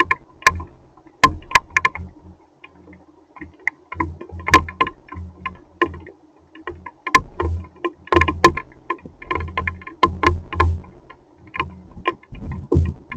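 Hailstones striking a hard surface in irregular sharp clicks and knocks, several a second, many with a dull thud beneath.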